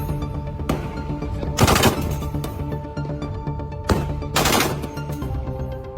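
Live-fire naval gunnery: shots from ship-mounted guns, a single shot about a second in, then a short burst, another single shot and a second burst, over background music.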